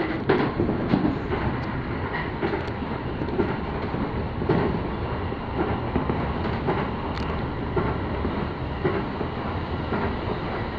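Running noise heard from inside a moving electric commuter train: a steady rumble of wheels on rail, with scattered sharp clicks.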